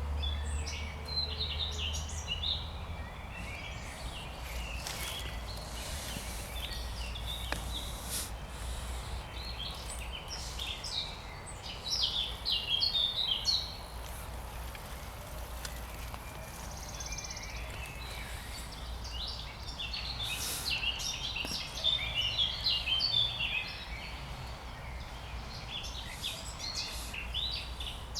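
Songbirds singing in spring, a mix of short chirps and trilled phrases that come thicker twice, about halfway through and again a little later, over a steady low rumble.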